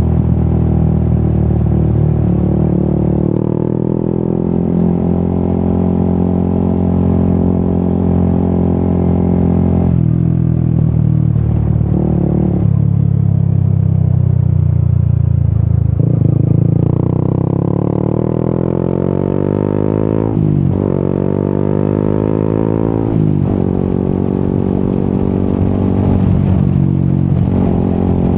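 Yamaha XSR 155 single-cylinder engine running through an Akrapovic aftermarket exhaust while riding. The note changes pitch several times as the throttle and gears change, and falls then jumps back up twice near the end, as in downshifts.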